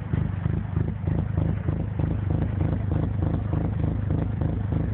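Cammed 2.2L Ecotec four-cylinder in a Chevy Cobalt SE idling with a choppy, loping rhythm of a few pulses a second. The lope comes from aggressive stage 2 CompCams, not a misfire.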